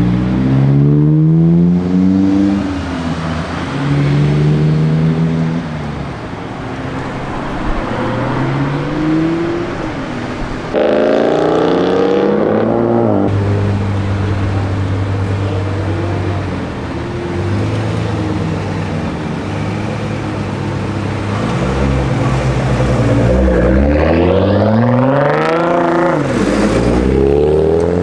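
Modified car engines and exhausts running at close range: engine notes rise and fall as cars rev and pull away, settle into a steady low idle through the middle, and one car accelerates with a long climbing note near the end.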